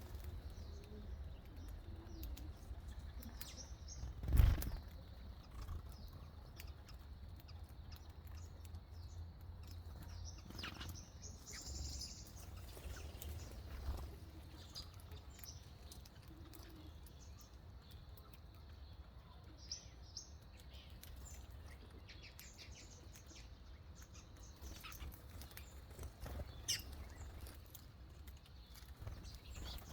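Small birds giving short, scattered chirps, with brief wing flutters and clicks, over a steady low rumble; a single loud thump comes about four seconds in.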